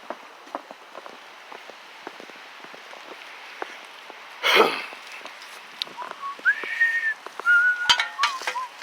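Storm wind blowing steadily, with scattered light ticks and a short sharp blast about halfway through. In the last three seconds come a few high whistling tones, each sliding up and then held, mixed with sharp clicks.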